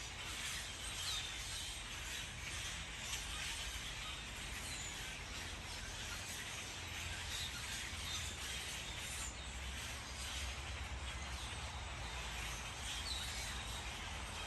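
Outdoor ambience: a steady background hiss with a few short, high bird chirps scattered through.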